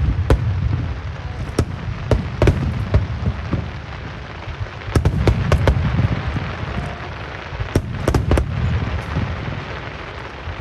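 Aerial fireworks bursting in rapid volleys: sharp bangs in clusters over a deep rolling rumble, heaviest near the start, about five seconds in and again about eight seconds in.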